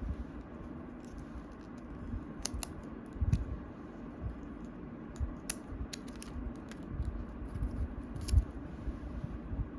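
Packaging being handled by hand during an unboxing: scattered light clicks and rustles, with a sharper click about three seconds in and again near the end, over a steady low hum.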